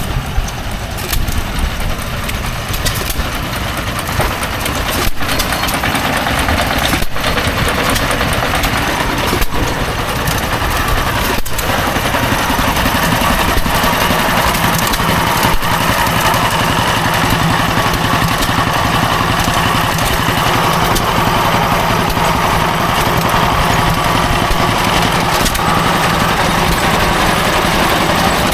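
Old engine running steadily, getting louder about five seconds in.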